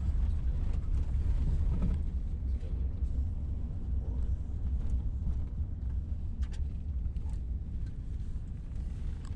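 Vehicle driving: a steady low road rumble, with a few faint clicks.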